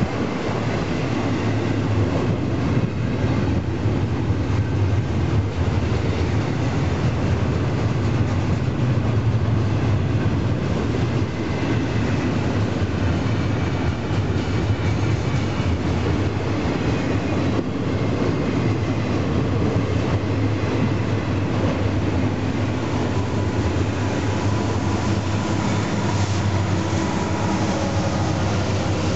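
Union Pacific double-stack intermodal freight train passing close by: a steady loud rumble and clatter of steel wheels on the rails as the container cars roll past. Near the end, the train's rear diesel locomotives come by and add an engine drone.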